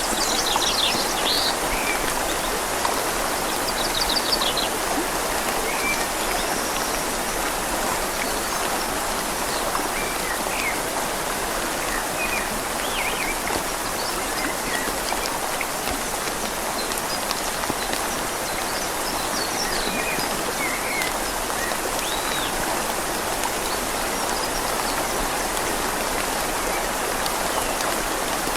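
Steady rain falling on leaves over a gently flowing river, with a few short bird chirps scattered through, most noticeably in the first few seconds.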